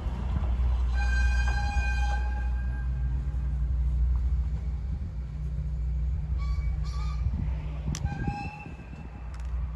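Steady low rumble of a moving vehicle, with short high pitched tones about a second in and twice more near the end.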